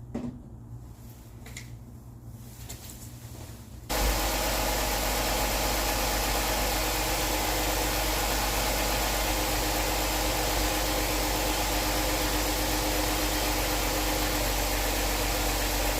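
2006 Dodge Charger engine idling steadily, running to circulate a motor flush through fresh oil. After a few faint clicks, the engine sound comes in suddenly about four seconds in and holds steady.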